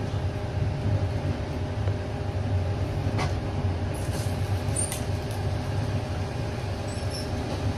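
Steady low rumble and hum of a passenger train carriage in motion, heard from inside the carriage, with a few faint brief high squeaks.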